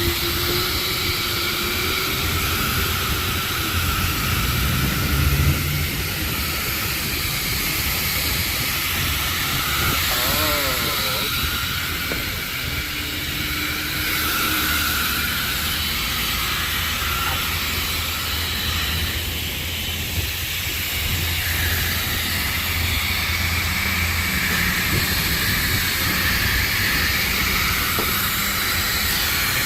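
High-pressure spray wand at a self-serve car wash, spraying water onto a car in a steady hiss.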